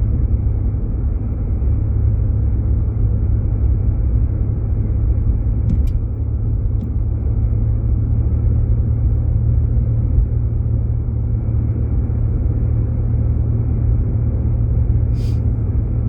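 Steady low rumble of engine and tyre noise inside a Jeep Grand Cherokee's cabin while driving on a snow-covered road, with faint clicks about six seconds in and again near the end.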